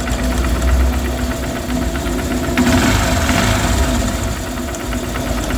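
Honda Shine's single-cylinder engine idling with a rapid, even khat-khat ticking from the head: a slack cam chain whose tensioner has lost its tension. A brief hiss comes in a little past halfway.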